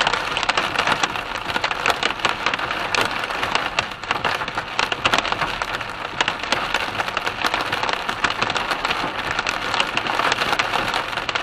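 Heavy rain beating on a car's roof and windscreen: a dense, loud, steady patter of many sharp drops.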